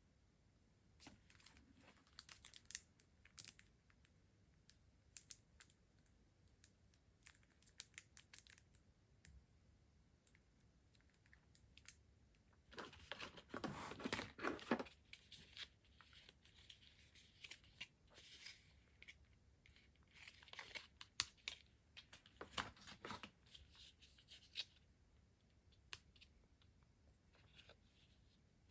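Stationery packaging being handled: a stretch of tearing and crinkling about halfway through, among scattered small clicks and rustles.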